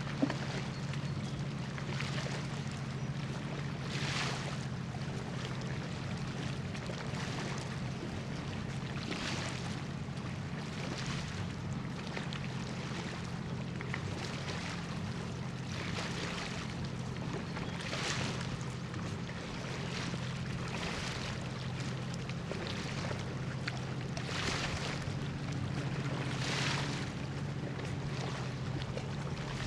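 Steady low drone of a cargo ship's engines carried across the water, with small waves washing in every couple of seconds.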